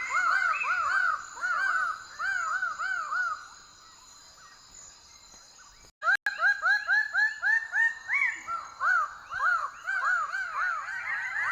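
Lesser birds of paradise calling: runs of quick, arched, repeated notes, about three to four a second. The calls fade for about two seconds midway, then start up again after a brief break, over a steady high whine.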